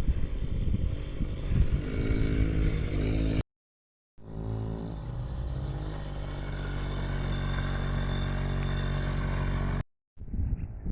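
Yamaha PW50 mini dirt bike's small two-stroke engine running and revving up and down. After a brief drop-out to silence it runs more steadily, its pitch slowly rising.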